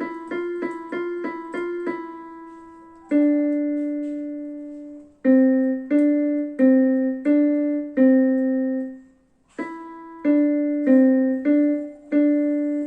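Simple melody played one note at a time on a keyboard with a piano sound, each note struck and fading away. There is a longer held note about three seconds in and a brief pause a little after nine seconds.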